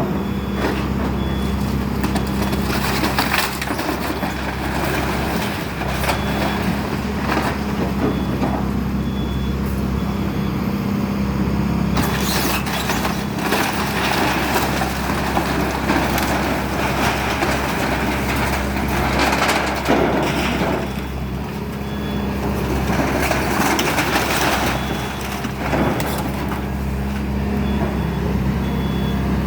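Excavator engine running steadily while wooden framing of a house is crushed and splintered, with repeated cracking and snapping, densest in a few bursts. A faint backup alarm beeps on and off.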